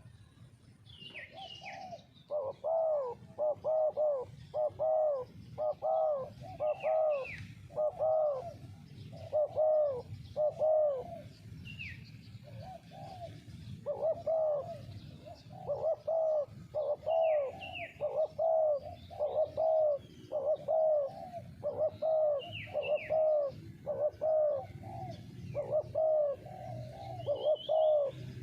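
Spotted dove cooing: a long run of short, evenly repeated coos, about two a second, with a brief pause in the middle. Small birds chirp faintly above it now and then.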